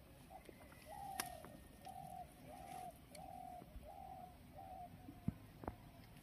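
A bird calling a run of about seven short, even hooting notes, roughly one and a half a second, each dipping slightly in pitch and fading toward the end. A few light clicks sound among them, with a sharp tap about five seconds in.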